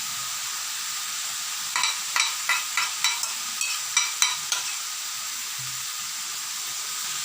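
Curry and vegetables sizzling steadily as they stir-fry in a pan. A quick run of spatula knocks and scrapes against the pan starts about two seconds in and stops just before the five-second mark.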